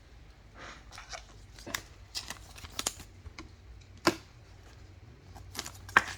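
Glossy trading cards being flipped and slid through by hand, a series of short swishes and light taps, with a sharper tap about four seconds in and another near the end.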